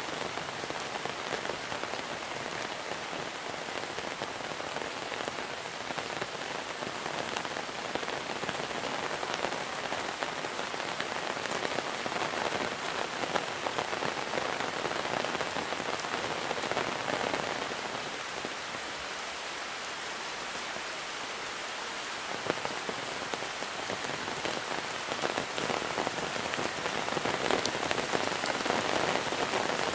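Steady monsoon rainfall, a dense hiss of rain with many individual drops ticking through it. It eases slightly about two-thirds of the way in, then grows louder near the end.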